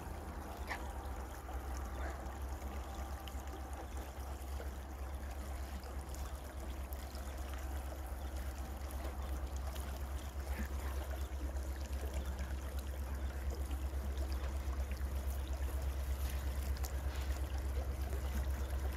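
Distant train approaching along the track: a low, steady rumble that slowly grows louder.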